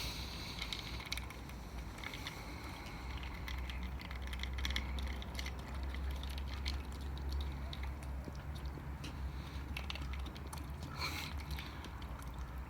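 Wind rumbling on the microphone, with scattered faint clicks and taps throughout and a short cluster of them about eleven seconds in.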